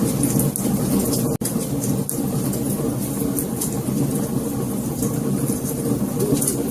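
Wood fire burning, with a steady low roar of flames and frequent sharp crackles and pops. A momentary dropout in the sound comes about a second and a half in.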